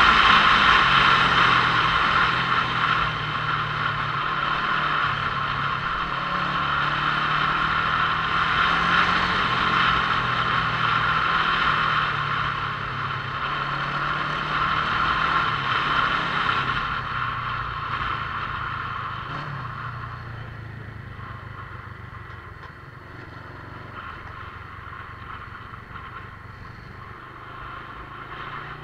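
Motorcycle being ridden: its engine runs at a steady note under wind and road noise, getting quieter about two-thirds of the way in.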